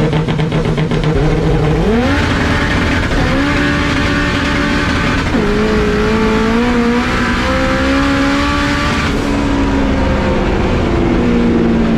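Drag car engine at full throttle on a no-prep drag run: revs jump sharply about two seconds in as it launches, climb, drop once at a gear change about five seconds in, then climb again.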